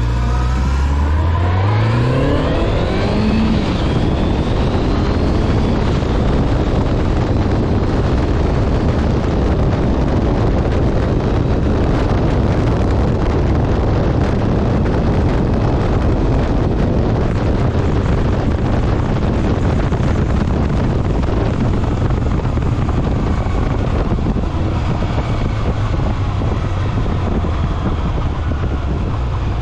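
Honda Nighthawk 750's air-cooled inline-four engine pulling up through the revs for the first few seconds, then holding a steady cruise. Heavy wind rush from riding at speed largely covers it.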